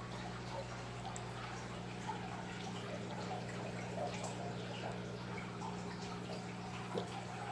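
Faint dripping and trickling water with small scattered splashes, over a steady low electrical hum.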